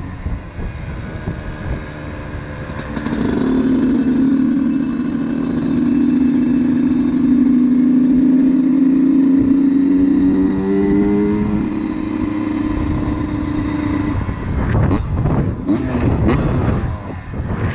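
Honda CR125's single-cylinder two-stroke engine on the move. It is off the throttle at first, then pulls for about ten seconds with its pitch slowly rising. About fourteen seconds in it eases off with a few short, uneven blips, and it is back on the throttle near the end.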